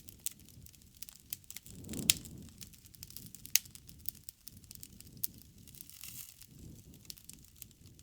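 Wood bonfire crackling with irregular sharp pops over a low rumble of the flames; the loudest pop comes about two seconds in.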